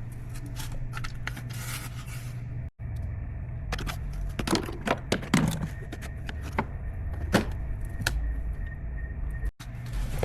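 Scattered clicks and knocks of a car door trim part being handled and fitted by hand, over a steady low hum.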